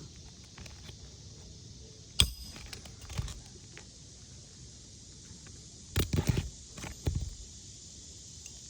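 Hammer striking a shingle snake tool slipped under a lifted asphalt shingle to drive a roofing nail: one sharp strike about two seconds in, a quick run of strikes around six seconds, and another just after seven.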